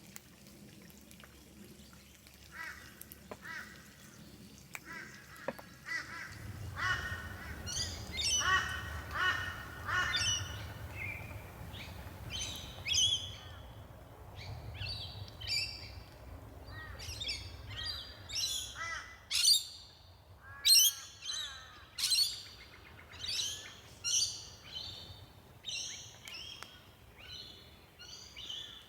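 Birds calling: a long run of short calls, repeated many times and loudest about two-thirds of the way in.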